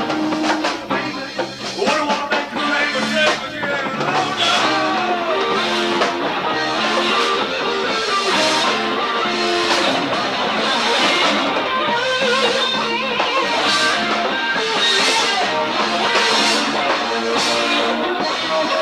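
Live rock band playing an instrumental passage: electric guitar with bent notes over bass guitar and a steady drum beat.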